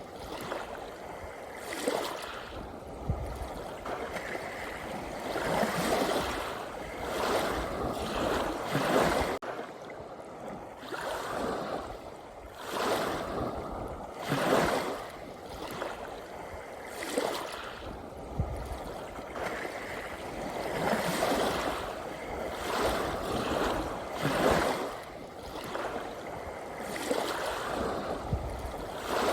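Ocean waves washing in, one surge of rushing water after another every two to three seconds.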